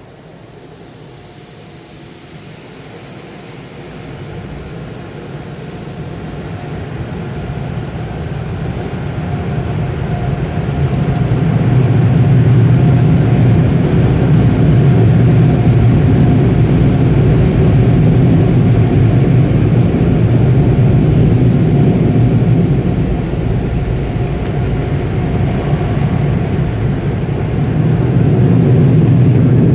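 Automatic car-wash tunnel machinery heard from inside the car's cabin: a steady, muffled noise that swells over about ten seconds, then holds loud, with a faint steady tone running through it.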